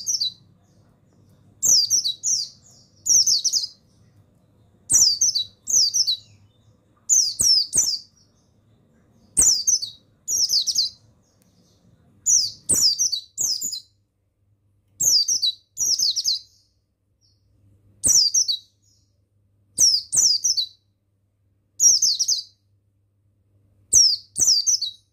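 White-eye (pleci buxtoni) calling in short bursts of quick, falling high chirps, often two bursts close together, repeated about every two seconds.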